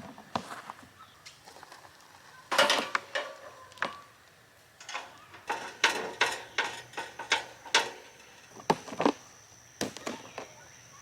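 Irregular knocks and clatter of objects being handled and set down, loudest about two and a half seconds in and through the middle, with a faint steady high tone coming in near the end.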